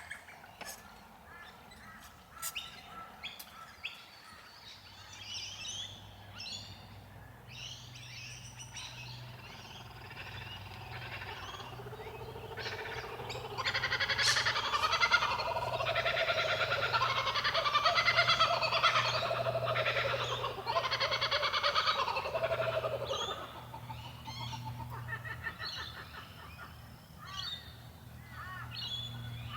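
Wild birds calling, with scattered calls at first and then a loud, dense stretch of calling for about ten seconds in the middle before it thins out again.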